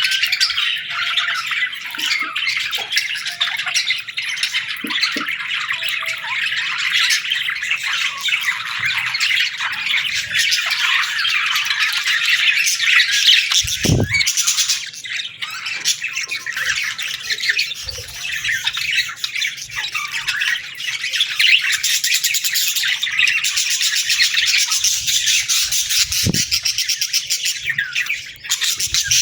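A flock of budgerigars chattering and chirping without pause, a dense mass of overlapping warbles and squawks. A brief low thump comes about halfway through.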